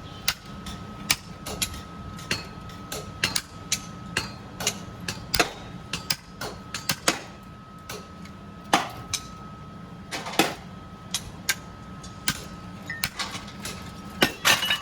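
Irregular metallic clanks and knocks of steel chain links being handled and worked, some sharp and loud, spaced unevenly from several a second to a second apart. Under them runs a steady machine hum with a thin constant whine.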